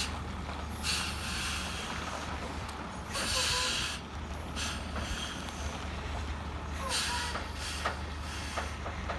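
Mercedes-Benz 4154 heavy truck's V8 diesel drones low and steady under load on a steep climb, with several short hissing bursts, about a second in, around three seconds in and near seven seconds, and a few faint short squeaks.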